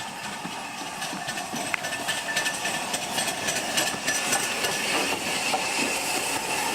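Steam locomotive and its train drawing near, steam hissing over rail and wheel noise with scattered clicks, getting louder over the first few seconds.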